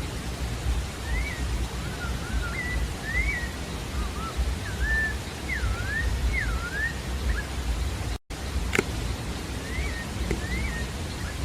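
Sabiá-da-várzea singing: a run of short, clear whistled notes, each sliding up or down in pitch, over a steady low rumble. About eight seconds in the sound cuts out for an instant and a sharp click follows, then a few more whistled notes come near the end.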